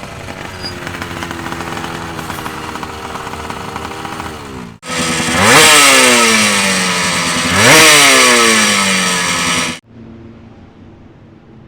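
Two-stroke racing motorcycle engines in cut-together clips: one running steadily, then a louder one revved sharply twice, each rev rising fast and falling away, then a fainter engine running near the end.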